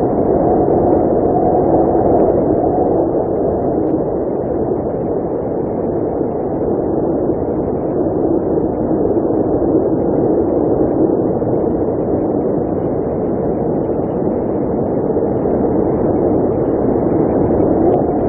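Blizzard wind blowing steadily, a dense low rush that swells and eases only slightly.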